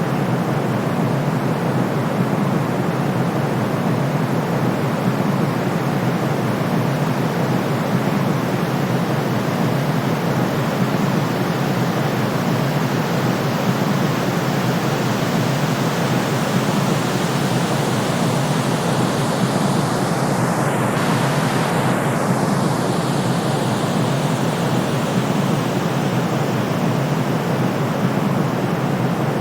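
Steady, continuous synthetic noise sold as white noise for sleep, heavier in the low and middle range so it sounds like an even rushing hush rather than a thin hiss. A faint slow shift in its upper tone comes about two-thirds through, with no other sounds.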